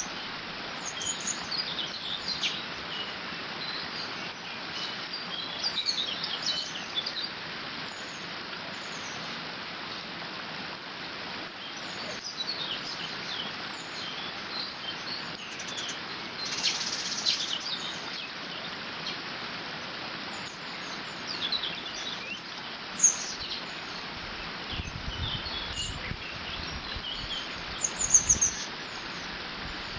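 Water running steadily over and through a beaver dam, with many small birds chirping and singing over it. A low rumble of wind comes in for the last few seconds.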